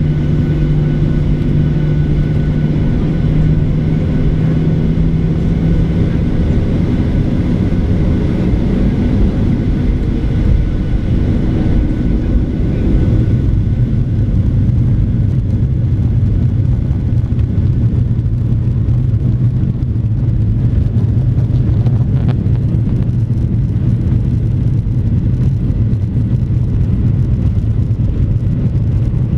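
Boeing 737-800's CFM56-7B turbofan engines running, a loud steady rush with a hum that shifts to a lower pitch partway through and then holds steady.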